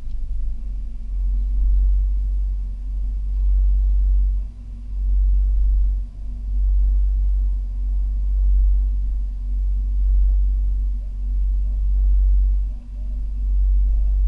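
Dodge Challenger Scat Pack's 392 HEMI V8 idling, heard from inside the cabin: a deep rumble that swells and eases every second or so.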